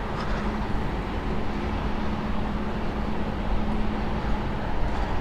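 Steady low rumble of distant city traffic, with a faint steady hum running through it.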